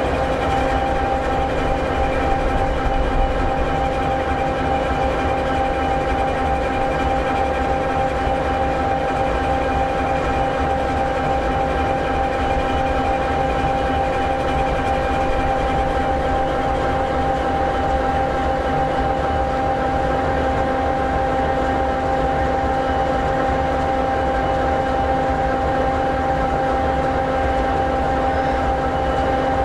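EMD 16-710G3B sixteen-cylinder two-stroke turbocharged diesel of an SD60E locomotive idling steadily, a constant rumble with a steady whine over it.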